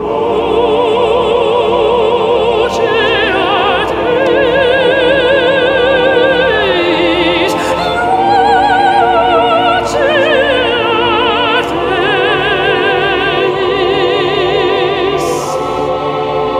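Operatic music: a classically trained voice sings a melody with wide vibrato over orchestral accompaniment.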